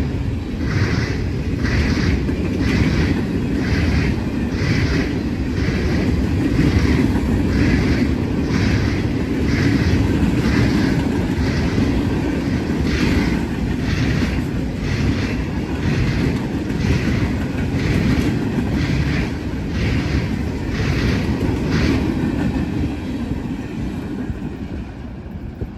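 A train rolling past with a steady low rumble, its wheels clicking over rail joints in a regular rhythm about once a second. It fades near the end.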